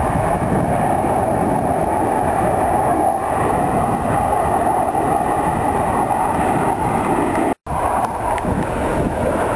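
Loud, steady noise of Blue Angels F/A-18 Hornet jets in flight, with a momentary dropout about three quarters of the way through.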